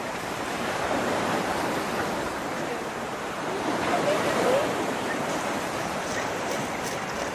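Waterfall water rushing in a steady, even roar of falling water.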